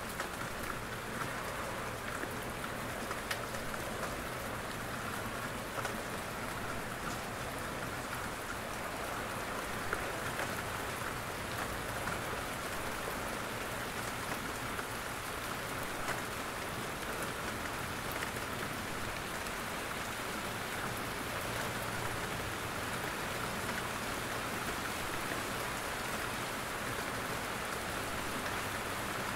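Steady rain falling in a forest, with heavier single drops from the trees pattering now and then.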